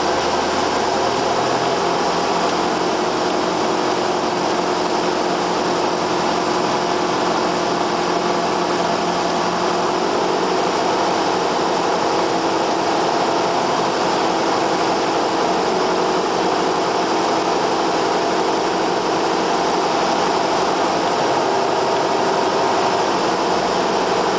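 Cessna 172R's four-cylinder Lycoming IO-360 engine and propeller running steadily in flight, heard inside the cabin over a wide hiss of airflow.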